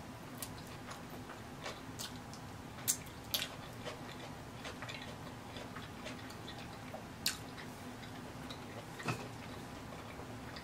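Close-miked chewing of a street taco: irregular wet mouth clicks and smacks, a few sharper than the rest, over a faint steady low hum.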